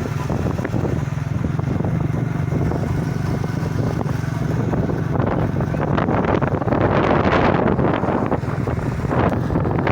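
Motorcycle engine running steadily while riding, with wind buffeting the microphone; the wind noise grows louder about six seconds in.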